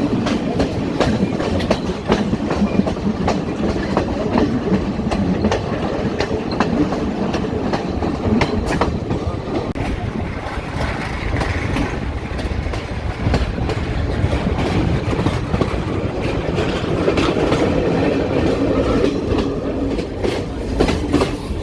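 Passenger train running along the track, its wheels clacking over the rail joints in a steady stream of clicks over a continuous rumble.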